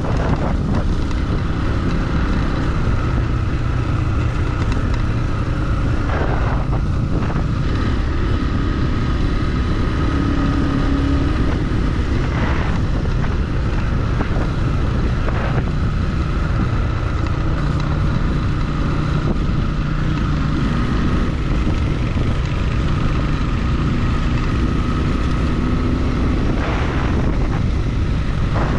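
Motorcycle engine running steadily while riding, its pitch wavering a little, over a dense rush of noise, with a few brief knocks scattered through.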